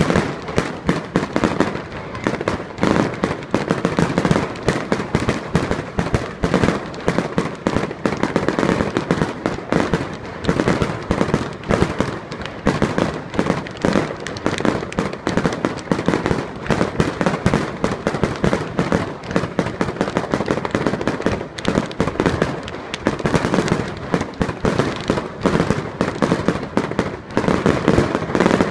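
Fireworks display: a dense, continuous barrage of aerial shells bursting, many bangs a second with no pause.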